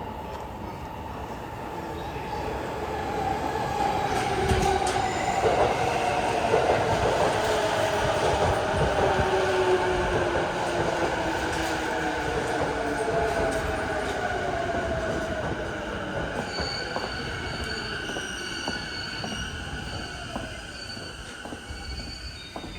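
JR East E233-1000 series electric train pulling into the station and slowing: the motor whine falls steadily in pitch as it brakes, with wheels clicking over the rail joints. Near the end a steady high squeal comes in as it comes to a stop.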